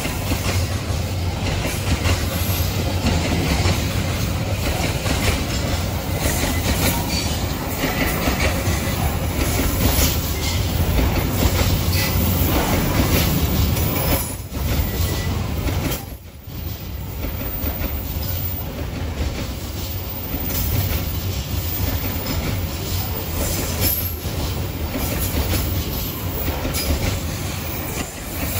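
Coal freight train of KKBW wagons with 18-ton axle loads rolling past close by: a steady rumble of steel wheels on the rails with many repeated clicks as the wheelsets cross the rail joints. The sound drops briefly twice about halfway through.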